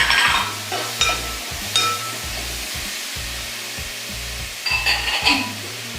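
A spoon scraping and clinking against a pan as tomatoes, green chillies and onions fry in coconut oil: a few short metallic strokes in the first two seconds and a cluster near the end, over background music.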